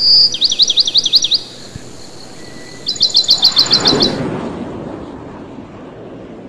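Bird chirping in two quick trills about a second long, each a fast run of sharp falling notes at about eight a second. The second trill starts about three seconds in, and a soft rushing noise swells and fades after it.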